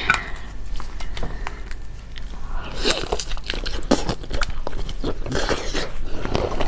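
Close-miked eating: a person biting and chewing food, a busy run of quick clicks and crunchy smacks.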